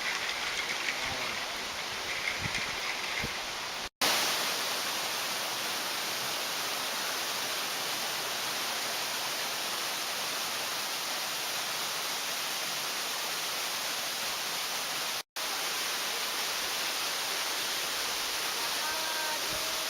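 Mountain stream rushing over rocks: a steady hiss of running water that stops abruptly for an instant about four seconds in and again about fifteen seconds in, slightly louder after the first break. Faint voices can be heard under the water in the first few seconds.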